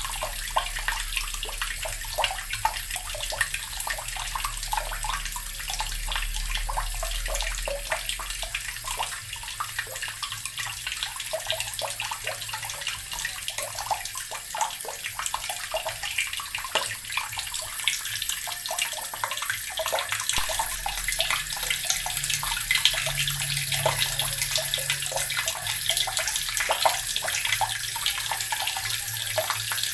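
Water running steadily from a tap and splashing, a continuous hiss with dense small spatters, over a faint low hum.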